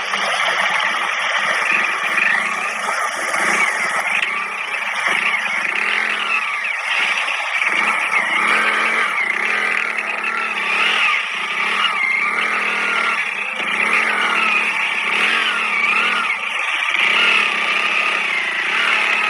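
Tractor diesel engine running, its pitch wavering up and down as the engine speed changes.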